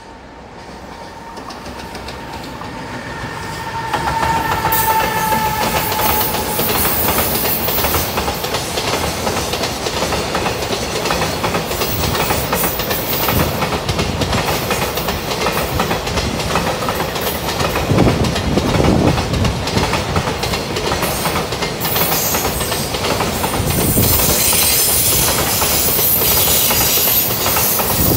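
A JR Freight EF210 electric locomotive hauling a container freight train passes close by. The sound grows over the first four seconds with a brief high whine, then the container wagons rattle and clickety-clack past steadily, with louder rumbles now and then.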